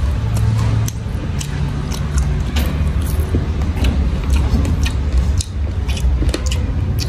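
Close-miked chewing of crunchy papaya salad and raw vegetables: a quick irregular run of sharp crunches and wet clicks over a steady low rumble.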